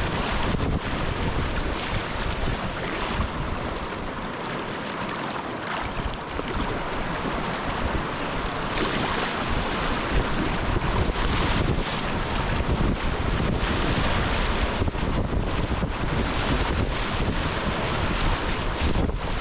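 Moving river water rushing and splashing through small Class II rapids and waves around a kayak, with wind rumbling on the microphone.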